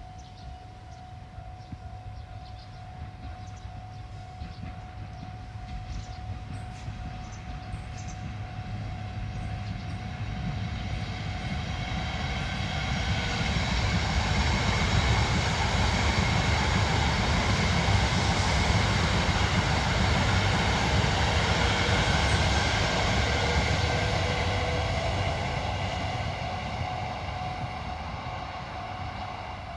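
Yamagata Shinkansen train passing: its rumble and rail noise swell over about ten seconds, stay loud for around ten seconds, then fade away.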